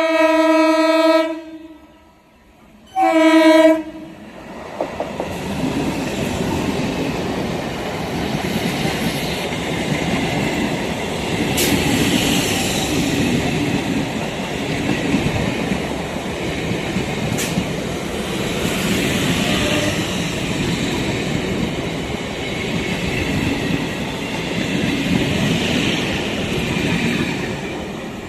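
Indian Railways train sounding its horn, one long blast and then a short one about three seconds in. The train then passes with a steady rumble and its wheels clattering over the rail joints.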